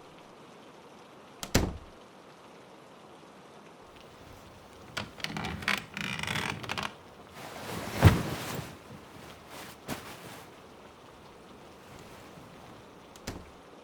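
Steady rain in the background, with cloth rustling and a few soft thumps from someone changing clothes; the loudest thump comes about 8 seconds in.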